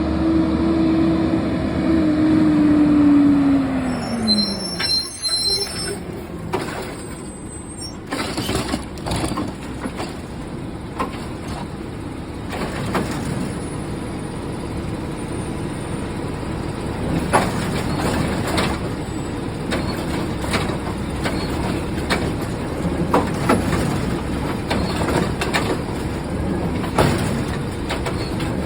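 Garbage truck working: a steady whine drops away about four and a half seconds in, then the truck runs on with repeated clanks and knocks.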